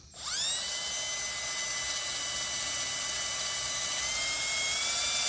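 Power drill spinning up and running at a steady high whine, its pitch stepping up slightly about four seconds in.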